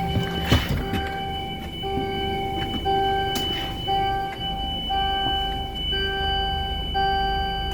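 A bus's warning beeper sounding about once a second while its air suspension raises the body, over the low running of the diesel engine. Two short bursts of air hiss come about half a second and three and a half seconds in.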